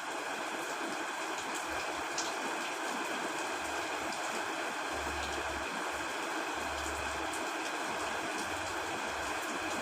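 Steady heavy rain falling on a tent, an even hiss with a few sharper drop ticks.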